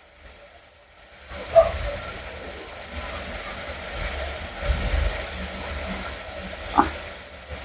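Steady hiss of food frying in oil in a pressure cooker on a gas burner, coming in about a second in, with a low rumble under it and two brief clicks.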